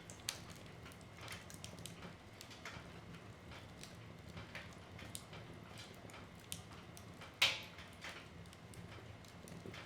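Wood fire crackling in a fireplace: irregular snaps and pops of burning logs over a low steady rumble, with one loud pop about seven and a half seconds in.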